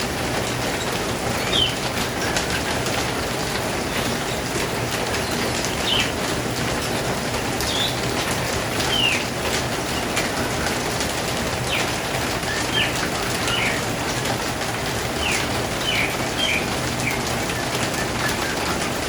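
Small birds giving short, high, downward-sliding chirps at irregular intervals over a steady rushing background noise.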